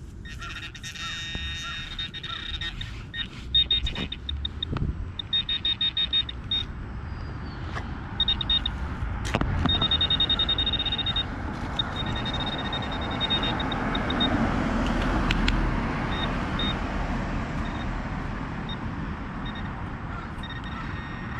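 Metal-detecting pinpointer probe beeping at a high pitch, in quick pulses that run together into a steady tone as it closes on a buried target, with a few sharp knocks of digging. A louder rushing noise swells in the middle.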